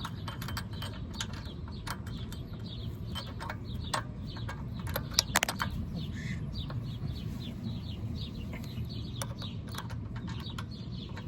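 Scattered light clicks and clinks of small metal parts and tools being handled during carburetor jet work. Birds are chirping behind them, with a quick run of short chirps from about halfway through.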